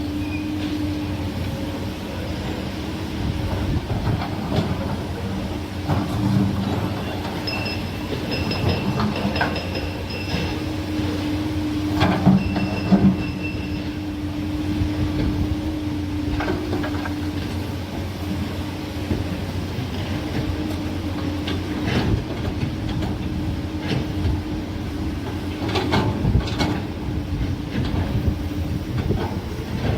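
Heavy excavator running steadily with a constant low hum, scattered metal knocks and clanks. Short runs of high beeps come twice near the middle.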